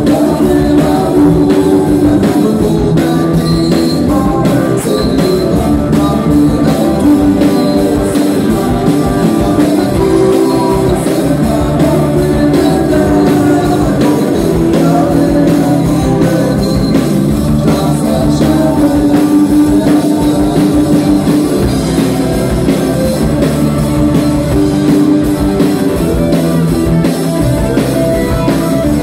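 A band playing a song: drum kit keeping a steady beat under guitar and a singing voice, loud and unbroken.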